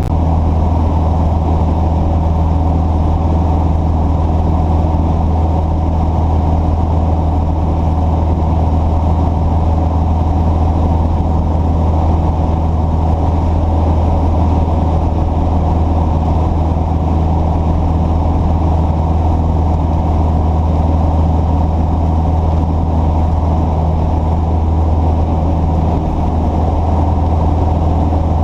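An engine running steadily at an even, unchanging speed, a constant low hum with no revving.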